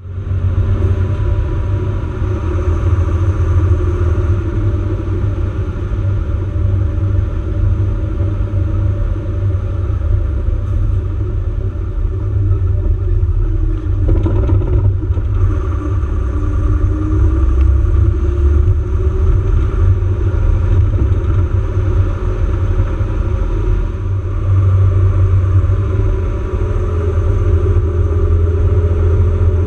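Off-road 4x4 vehicle's engine running while driving, a loud steady deep rumble whose pitch wavers now and then, with a brief change in the sound about halfway through.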